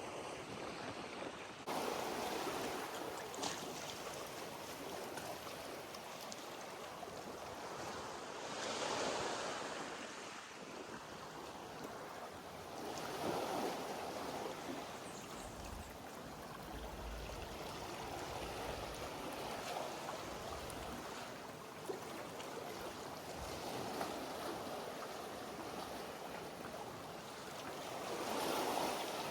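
Sea waves washing in, swelling and fading every few seconds, with a short low rumble of wind on the microphone about halfway through.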